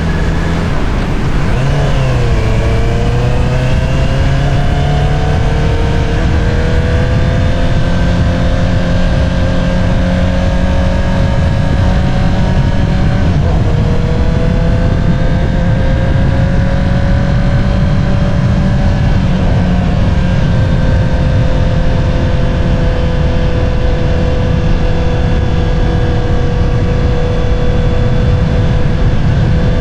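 2022 Honda CBR650R's inline-four engine running through an Akrapovič single-outlet exhaust while riding, the pitch climbing slowly under steady throttle. Twice, near the middle and about two-thirds through, the pitch drops sharply and climbs again, as with upshifts.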